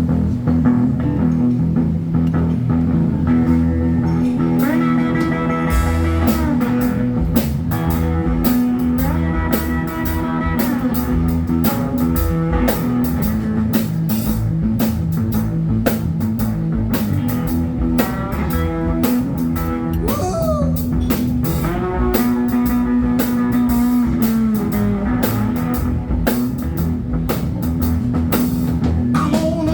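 Live instrumental blues on cigar box guitar, with sliding notes and a steady drum beat behind it.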